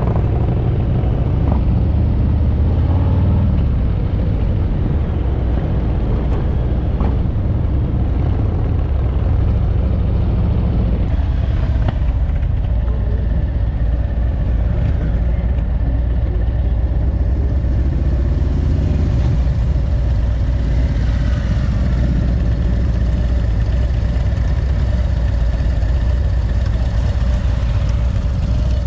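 Harley-Davidson V-twin motorcycle riding at road speed, heard from a camera on the bike: a steady low engine rumble.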